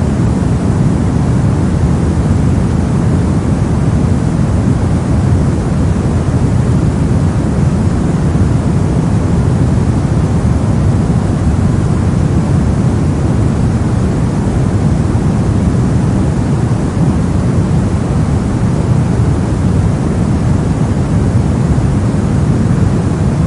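Steady soft white noise, weighted toward the low end and dull in the highs, running evenly without change.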